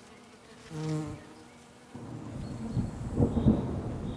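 A bee buzzing briefly past about a second in, at a steady pitch. From about two seconds in, a louder low rumble sets in and builds.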